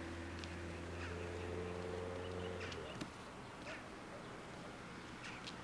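Faint outdoor ambience with short, scattered bird chirps. A steady low hum runs under it and cuts off abruptly with a click about three seconds in.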